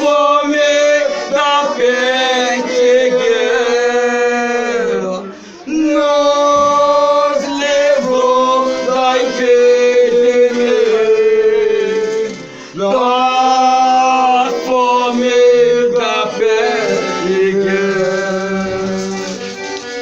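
Men's voices singing a slow devotional folia verse in long, drawn-out notes, with two short breaks about five and a half and twelve and a half seconds in.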